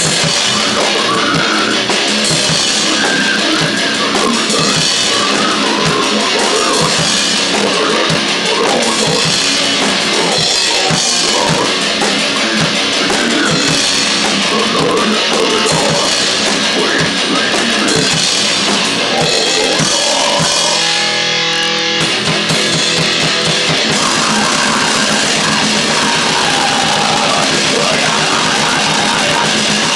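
Grindcore/noise band playing: fast drum kit and distorted guitar in a dense, loud wall of sound. About 21 seconds in it briefly thins to a few held tones before the full band comes back in.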